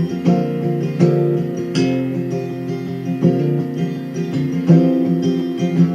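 Instrumental break in a recorded hymn: acoustic guitar picked and strummed, with no singing.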